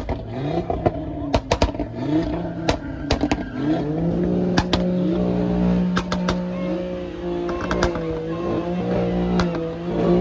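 A performance car engine revved in quick repeated blips, each a short rising sweep, then held at steady high revs from about four seconds in. Sharp pops and clicks are heard throughout.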